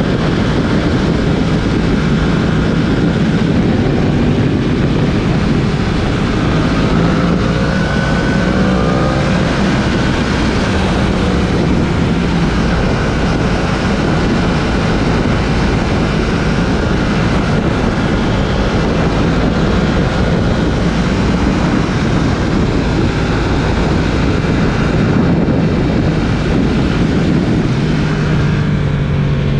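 Yamaha R1's crossplane inline-four engine running at fairly steady revs on the move, under a steady rush of riding noise; the engine note shifts in pitch near the end.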